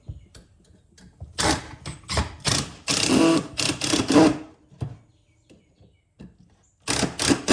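Cordless drill driving screws into wood in several short bursts, with a pause before another run near the end. The driver bit is worn enough that a new one is needed.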